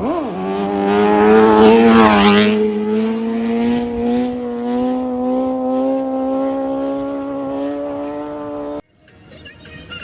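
Superbike engine running hard at high revs, its pitch climbing slowly and steadily as it pulls. About two seconds in, a second engine note sweeps up and then down across it. Near the end the engine sound cuts off abruptly and music starts.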